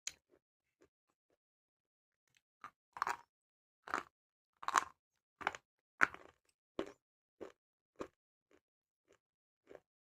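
Someone biting and chewing red slate pencil, the baked clay crunching in short, separate crunches. After a short bite at the start and a pause of about two seconds, the chewing runs at one or two crunches a second, loudest in the middle and growing fainter near the end.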